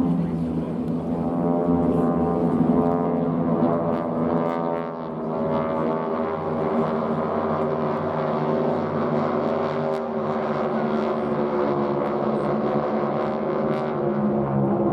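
Aircraft engines droning steadily, one sustained pitched tone with many overtones that wavers slightly in pitch.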